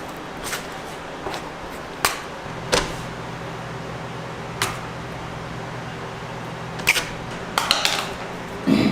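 Scattered sharp knocks and clatter, like utensils and containers being handled, over a steady low machine hum that grows a little stronger about two and a half seconds in.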